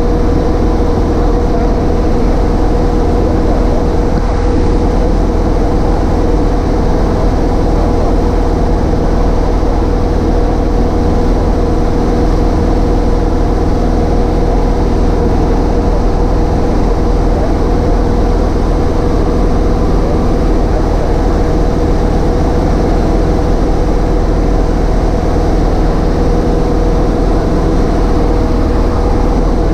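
Cessna 152's four-cylinder Lycoming engine and propeller running at a steady speed, a loud, even drone heard from inside the small cockpit.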